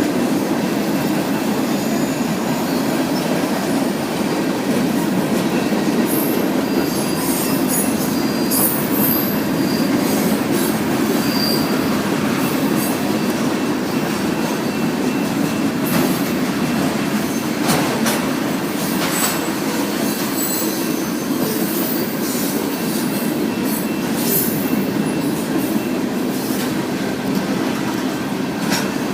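Freight train cars rolling past steadily, with high, thin wheel squeal coming and going and a few sharp clanks as wheels pass over the rail joints.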